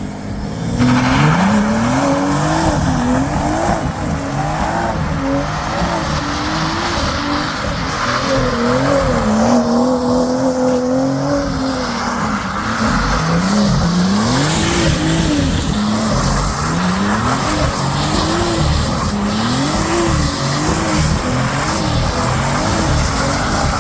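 BMW 340i's turbocharged inline-six revving up and down over and over as the car slides and spins its wheels on snow, with a steady hiss of tyre wheelspin under it.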